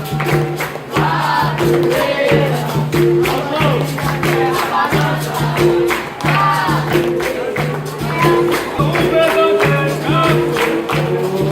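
Capoeira roda music: voices singing over a pandeiro and a berimbau, whose few low notes repeat in a steady, even rhythm.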